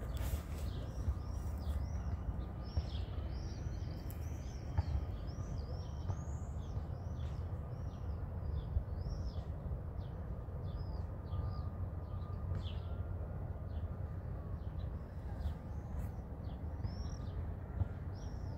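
Small birds chirping, a rapid string of short arched notes several times a second, over a steady low rumble of background noise.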